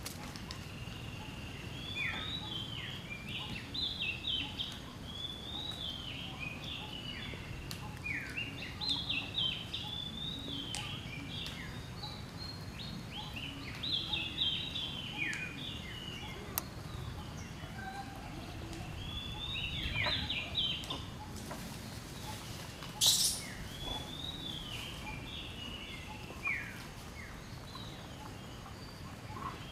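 Wild songbirds singing in repeated phrases of quick, falling chirps over a steady low rumble of background noise. A single short, sharp high-pitched sound stands out about three-quarters of the way through.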